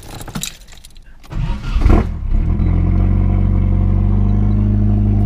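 A turbocharged Nissan KA24DET 2.4-litre inline-four starts, heard from inside the cabin, on a freshly fitted top-mount turbo manifold and homemade downpipe. After a few faint clicks, the starter cranks briefly and the engine catches about two seconds in. It then settles into a steady idle.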